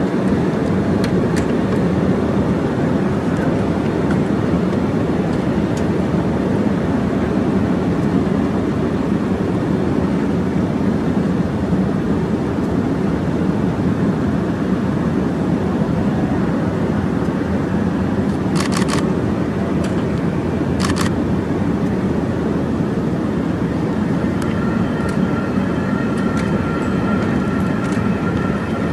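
F-35A Lightning II's single Pratt & Whitney F135 jet engine running steadily at ground idle with a dense rumble. Two short clicks come through about two-thirds of the way in, and a faint steady whine joins in over the last few seconds.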